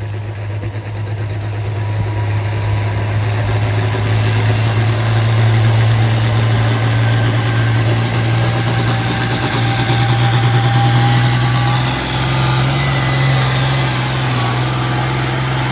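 Engine of a pulling truck or tractor running at full power during a pull down the track: a loud, steady deep note that steps up slightly about twelve seconds in, with a faint high whine climbing slowly in pitch over it.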